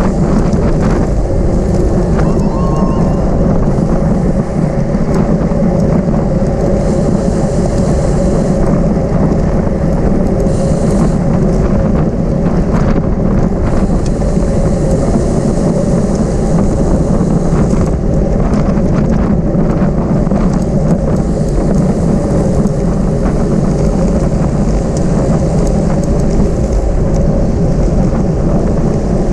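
Steady wind rumble on the microphone of a camera carried on a racing bicycle moving at speed, with some road and bike noise under it.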